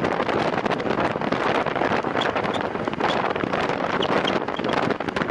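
Steady wind noise buffeting the microphone of a camera carried on a time-trial bicycle ridden at race speed.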